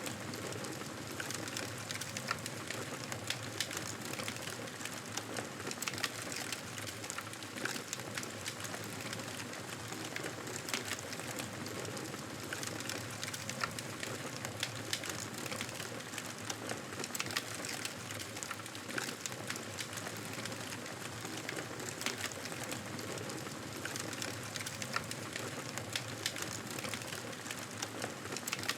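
Wood fire burning in a fireplace: a steady hiss with frequent irregular crackles and pops.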